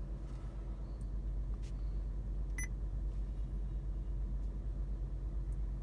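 Car engine idling steadily, heard from inside the cabin as a low hum. A short electronic beep, the head unit's touchscreen tap tone, sounds once about two and a half seconds in.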